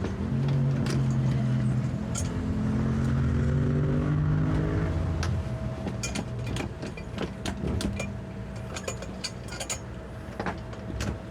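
A motor runs with its pitch rising over the first five seconds, then dies away. Scattered light clicks and knocks follow.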